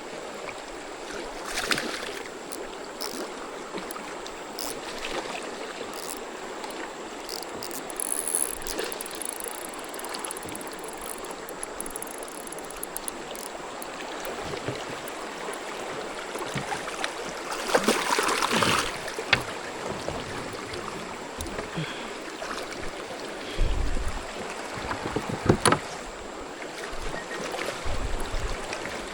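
Creek water running steadily over the shoals, with scattered clicks, a louder rush of splashing noise lasting over a second about two-thirds of the way through, and a couple of low knocks near the end.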